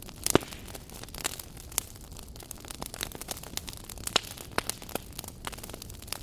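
Wood fire burning in a fireplace, crackling with irregular sharp pops and snaps over a low steady hiss; the loudest pop comes about a third of a second in.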